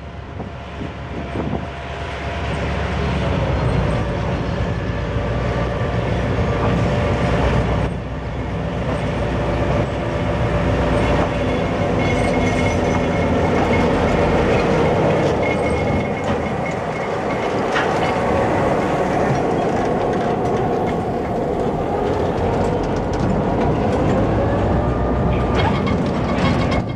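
Diesel freight locomotives, GE-built No. 6120 leading, with engines running as the train rolls slowly past close by. The sound grows louder over the first few seconds as the train draws near, and the wheels give a few clacks over the rail joints.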